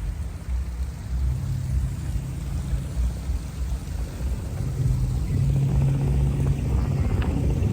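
A loud, unsteady low rumble with a hiss of noise above it, growing somewhat louder in the second half.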